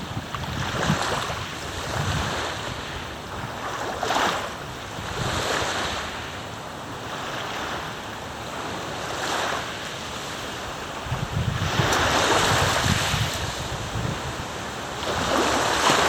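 Lake waves washing in with wind buffeting the microphone, swelling and easing every few seconds.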